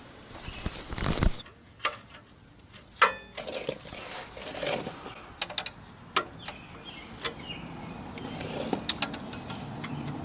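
Scattered metallic clinks and knocks of hand tools and parts being handled during work on the vehicle, including a ringing clink about three seconds in.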